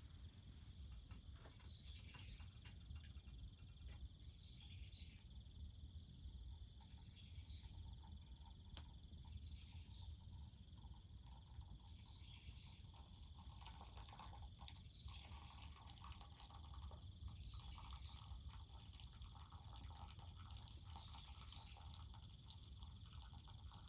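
Faint rural outdoor ambience: a steady high insect trill, with a short high call repeating about every two seconds from an animal such as a frog or bird, and scattered faint ticks.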